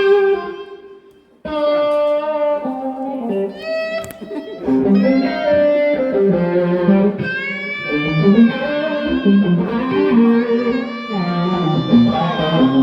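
Electric guitar playing a slow, singing lead melody, the notes sustained, with pitch glides and wavering vibrato from the tremolo bar. The playing dies away briefly about a second in, then picks up again.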